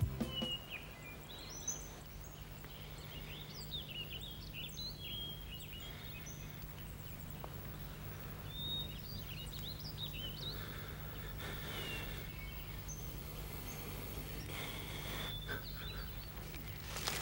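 Small birds chirping, many short high calls scattered throughout, over a low steady hum.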